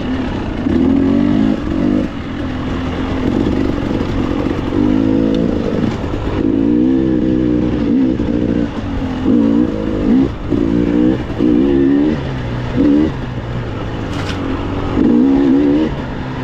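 KTM dirt bike engine under load, revving up and easing off again and again, with sharper throttle bursts from about halfway through.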